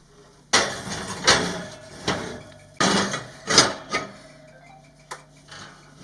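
Kitchen utensils scraping and clanking against cookware and dishes, in a run of irregular strokes starting about half a second in, as food is handled.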